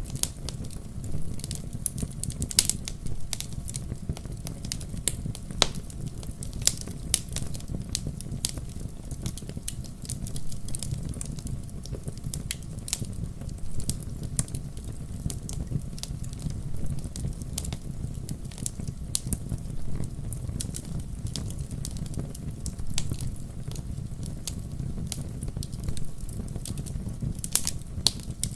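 Wood campfire crackling: irregular sharp pops and snaps, some much louder than others, over a steady low rumble.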